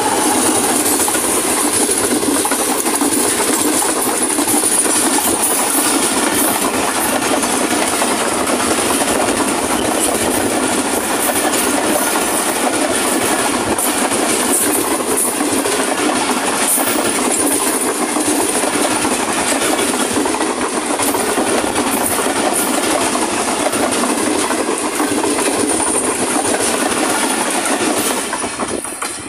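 Passenger express train led by a GEU-40 diesel-electric locomotive passing at speed close by. A loud, steady rush comes from the long rake of coaches, with rapid clickety-clack of wheels over rail joints. The noise drops away just before the end as the last coach clears.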